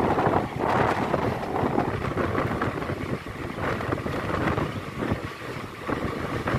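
Indian Railways passenger train running at speed, heard from an open coach window: steady wind buffeting the microphone over the rumble of the coach on the track.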